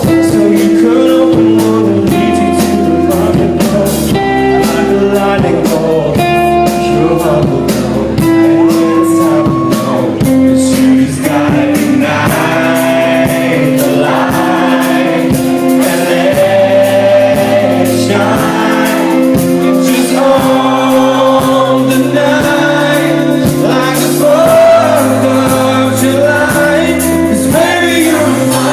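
Live band playing a pop song with singing, loud and close to the microphone, with a steady strummed rhythm under the held sung notes.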